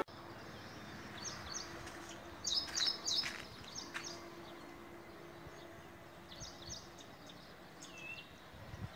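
Birds chirping in short clusters of high calls over faint outdoor background noise, with a faint steady hum under it for a few seconds.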